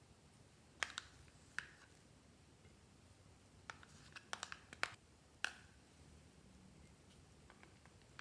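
Clear slime being worked by hand, giving a scattering of small sharp clicks and pops, with a quick cluster of them about four to five seconds in.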